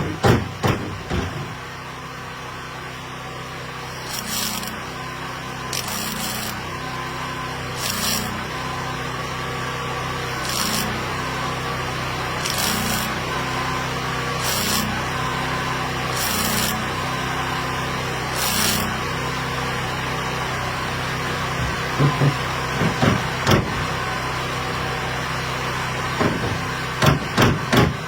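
A steady machine hum with short hissing bursts about every two seconds, then a run of sharp knocks near the end, like hammering on metal.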